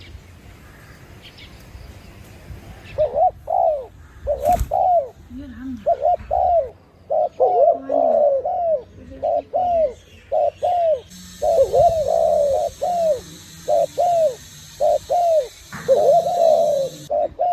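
Dove cooing: a long run of short, arching coo notes in quick groups with brief pauses, starting about three seconds in. A single sharp click comes early in the run.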